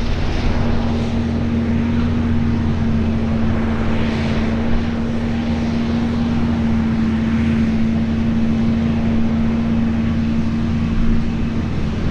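Farm machinery engine running steadily under load, a constant drone with a steady hum held at one pitch.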